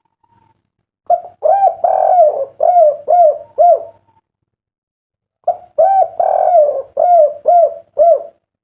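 Spotted dove (derkuku) cooing a 'kuk 3' song twice. Each phrase is a short coo or two, one longer, fuller coo, then three short 'kuk' coos, with a pause of about a second and a half between the phrases.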